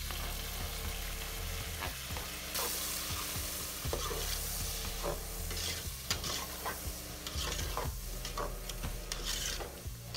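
Chopped tomatoes and green chillies sizzling in hot oil with fried onions in a metal pot, the sizzle growing louder a couple of seconds in. A spoon stirs and scrapes against the pot throughout.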